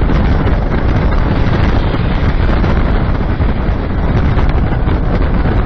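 Tornado-force wind blasting the microphone: a loud, steady rush of wind noise.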